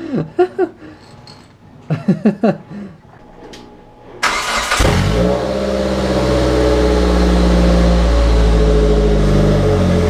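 Car engine started about four seconds in, catching almost at once and then running steadily through a freshly rigged exhaust with a muffler in place of open headers. Brief voices are heard before it starts.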